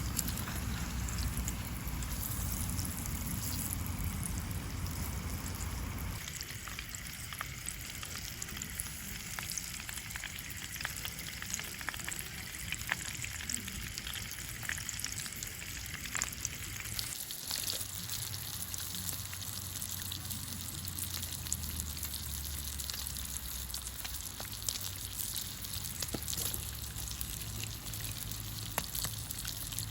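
Food frying in a pan: a steady sizzle with many small pops and crackles.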